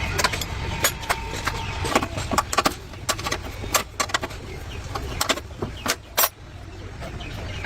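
Irregular sharp clicks and knocks, like tools and parts being handled during repair work, over a low steady hum.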